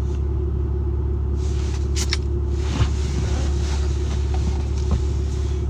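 A truck's engine running with a steady low rumble, heard from inside the cab, with a brief sharp click about two seconds in and a couple of faint knocks later.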